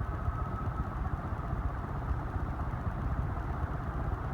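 Antique Diehl ceiling fan running on high with heavy aluminum blades, a steady low rumble of motor and moving air. It is still coming up to full speed under the weight of the blades.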